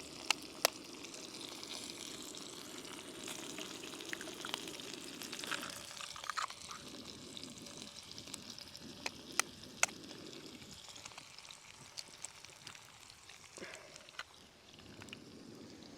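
Fresh eggs frying in a pan alongside sausages: a steady sizzle throughout. There are a few sharp clicks, a pair right at the start and another pair around nine to ten seconds in.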